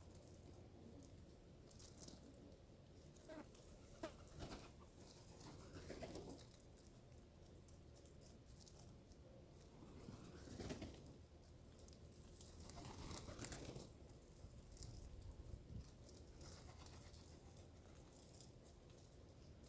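Faint sounds of birds feeding: scattered light pecking taps and scuffling, with a few soft, longer low sounds about five, ten and thirteen seconds in.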